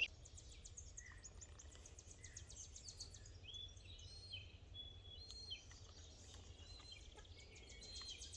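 Faint birdsong: a quick run of high chirps over the first few seconds, then a few short whistled notes, over a steady low outdoor rumble.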